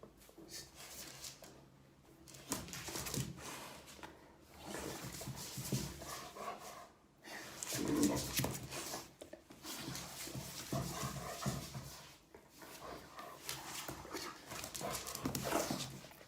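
A dog panting in uneven bursts with short pauses.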